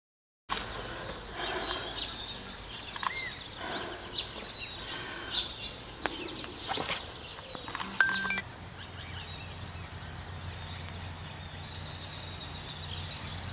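Several small birds chirping and whistling in quick, overlapping calls, with a sharp click about eight seconds in. After the click the calls thin out to faint high chirps over a low steady hum.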